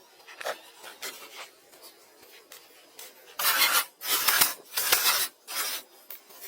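A hand tool scraping wood, with a few faint clicks and then four loud rasping strokes in the second half.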